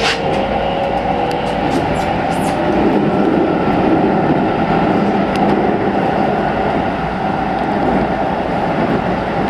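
Inside a Keikyu New 1000 series electric train car running between stations: a steady rumble of wheels on rail and motors, with a few light clicks about two seconds in.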